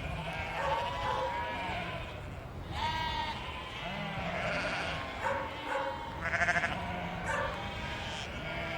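A flock of sheep bleating, many calls overlapping and following one another without pause, several bending up and down in pitch, over a steady low rumble.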